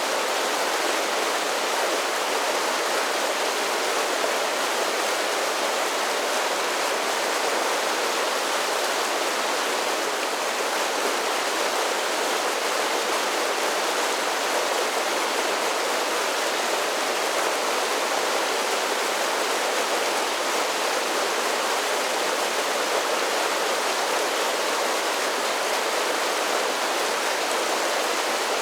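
Mountain creek rushing over a series of small waterfalls: a steady, unbroken rush of water.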